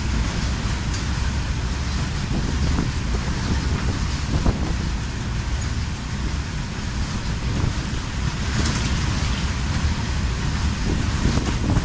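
Loaded BCNHL covered freight wagons running fast past on the adjacent track: a steady, loud rumble of wheels on rail, with a few faint knocks along the way.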